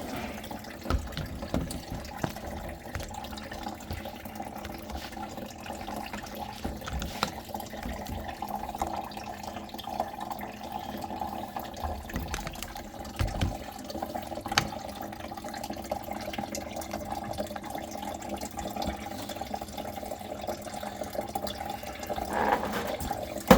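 Water running and trickling steadily in a sink drain setup, with a few light knocks along the way.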